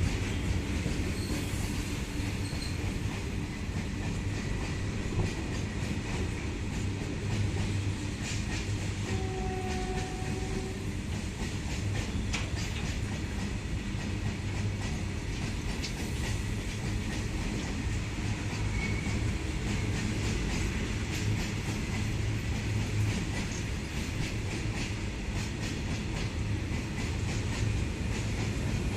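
Goods train rolling through a station without stopping: a steady rumble of freight wagons with a continuous clickety-clack of wheels over rail joints.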